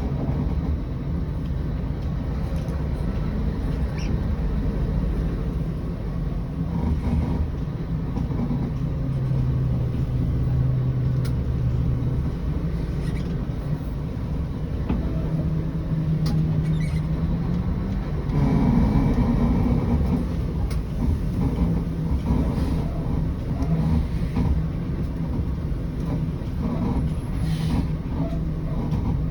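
Scania 113 bus's diesel engine running under way, its note shifting up and down with engine speed, with a louder stretch about two-thirds of the way through.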